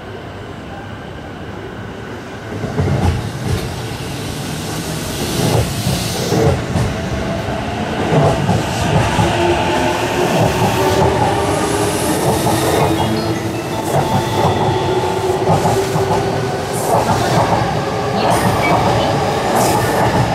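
JR East E233-1000 series electric train pulling out and speeding up past the platform. Its motors whine in several tones that slowly rise in pitch, over the rumble and clatter of the wheels on the rails. The sound grows louder about two and a half seconds in, as the train starts to move.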